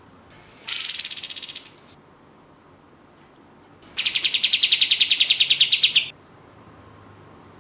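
Kapas tembak (katem) songbird giving two rapid rattling trills, a short one about a second in and a longer one about two seconds long in the middle, each a fast run of high, evenly repeated notes, the second sliding slightly down in pitch.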